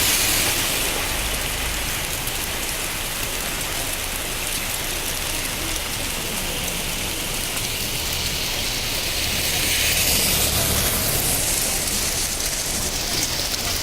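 Heavy rain mixed with hail coming down steadily: a dense hiss full of fine ticks, growing a little louder about ten seconds in.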